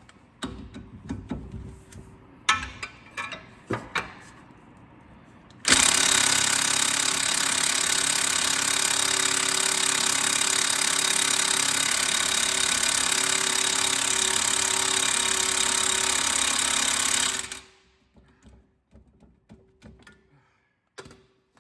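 Impact wrench hammering steadily for about twelve seconds on a seized nut that has just been heated, then stopping abruptly. Before it, a few light clicks and knocks as the socket is fitted.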